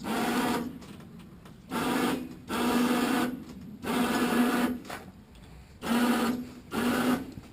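Electric power winch in a pickup bed, run in about six short bursts of under a second each, hauling an ultralight trike up a little at a time.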